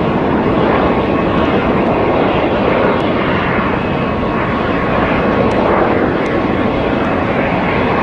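Airplane engine running steadily: a loud, even rushing drone with a faint steady whine in it, starting abruptly.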